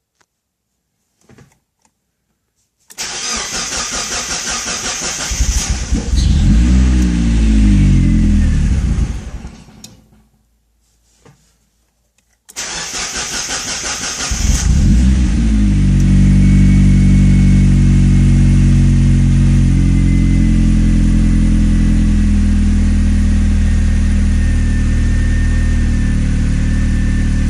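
Cold engine cranked by its starter for a few seconds until it catches, runs briefly with a rise in speed and then stalls. A second crank a few seconds later starts it again, and it settles into a steady idle.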